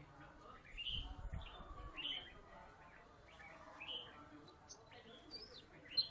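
Oriental magpie-robin (kacer) singing, a run of short rising whistled notes about once a second, with higher, quicker notes near the end. A low rumble sounds about a second in.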